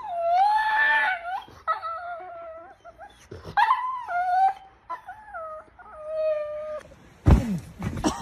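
A dog howling and whining in four long, wavering calls, then a sharp thump about seven seconds in.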